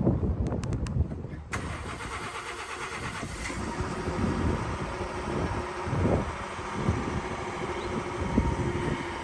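A few clicks, then about a second and a half in the 3.5-litre EcoBoost V6 of a 2018 Ford F-150 starts and runs at idle through its exhaust, with uneven low swells.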